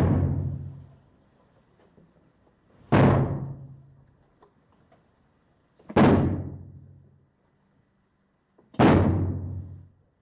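Heavy booming impacts, four in a row about three seconds apart, each struck sharply and dying away over a second or so with a low lingering ring.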